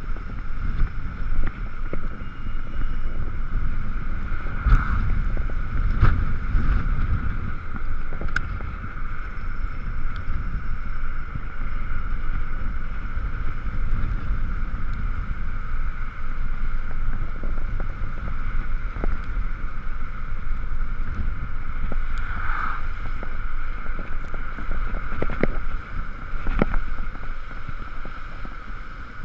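Riding noise on an Ekoway ML5000 electric scooter in the rain: steady wind and road rumble with a steady high-pitched whine over it. A few short knocks stand out, two close together about five and six seconds in and others near the end.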